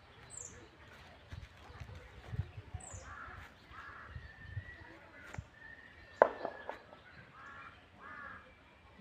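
Birds calling: a few short high chirps that fall in pitch, and two groups of harsh, caw-like calls, a little over three seconds in and near the end. A single sharp knock sounds about six seconds in.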